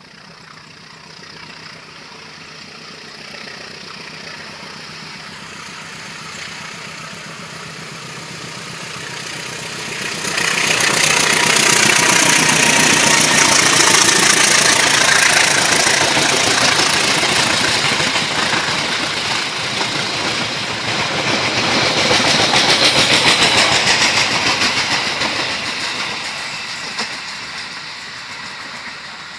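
Diesel-electric locomotive hauling a passenger train past: the engine grows steadily louder as it approaches, jumps up about ten seconds in as the locomotive and coaches pass close, stays loud for over ten seconds, then fades as the train moves away.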